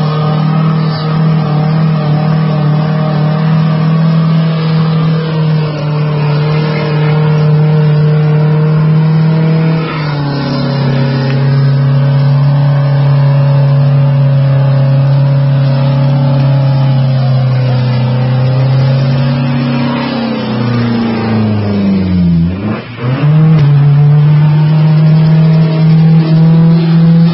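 Datsun 160J SSS engine held at high revs during a burnout, the rear tyres spinning and smoking. The revs stay steady, then drop sharply for a moment about three-quarters of the way through before climbing back up.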